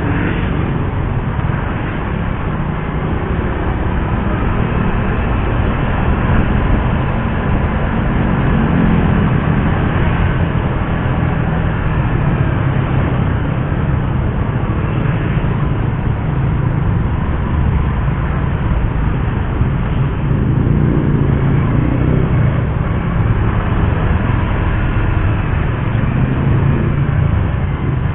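Suzuki GSX-R150's single-cylinder engine running while riding along, together with steady road and wind noise; the engine note rises and falls a few times with the throttle.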